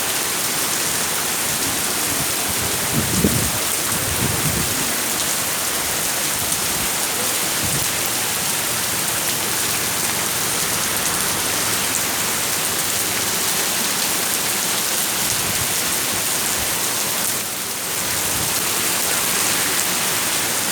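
Heavy rain falling steadily, a dense even hiss of rain on surfaces. There are a couple of low thumps about three to four seconds in, and the rain briefly dips in level near the end.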